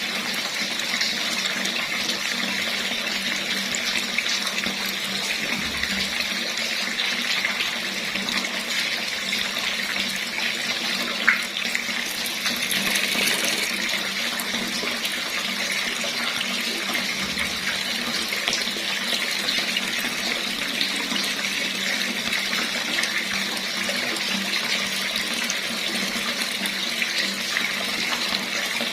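Water running steadily from a tap, an even rushing splash with a single brief click about a third of the way through.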